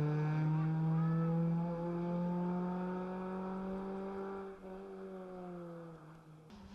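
A rally car's engine pulls hard with its pitch slowly rising, and shifts gear about four and a half seconds in. It then fades steadily as the car moves away, and the sound cuts off sharply near the end.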